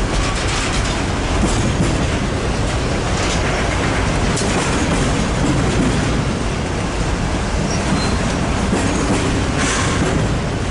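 Train cars rolling past on the main line: a steady rumble with wheels clattering over rail joints and a few brief, faint wheel squeals.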